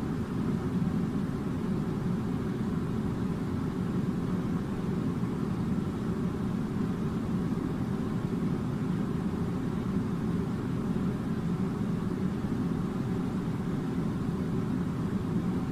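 Steady low rumbling hum of running machinery, unchanging throughout.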